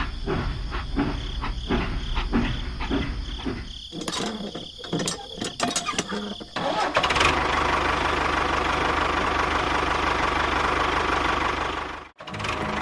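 A motor starting: about six seconds of irregular chugging, then it settles into steady running with a constant whine. The sound drops out briefly near the end.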